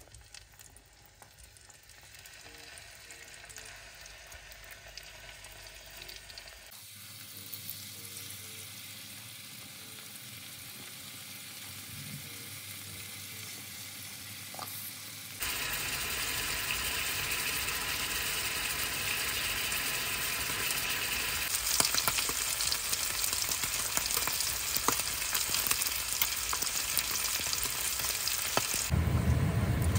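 Salmon fillets sizzling as they fry in hot butter in a frying pan. The sizzling grows louder, with a sudden jump about halfway through.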